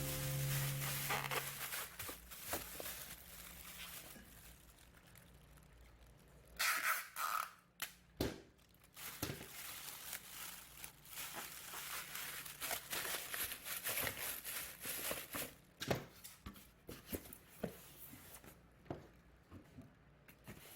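A low held tone fading out in the first second or two, then scattered faint clicks and rustling handling noises.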